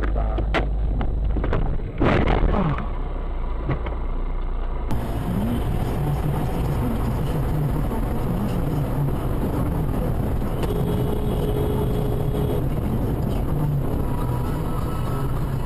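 Dashcam recordings of cars driving: engine and road noise, with a sharp knock about two seconds in. About five seconds in the sound cuts to a steadier drone of engine and tyre noise.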